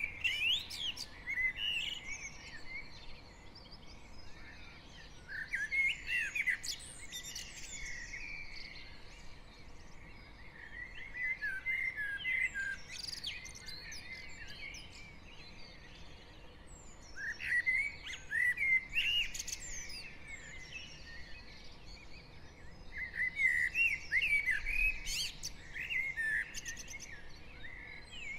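Dawn chorus of garden songbirds, several birds singing at once. The loudest phrases come in bursts about every five or six seconds.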